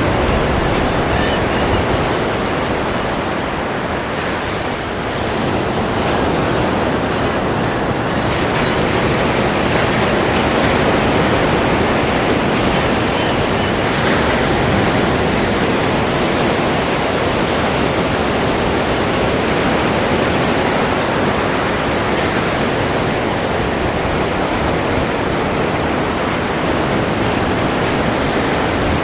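Ocean surf: a steady, loud wash of breaking waves, with no separate crashes standing out.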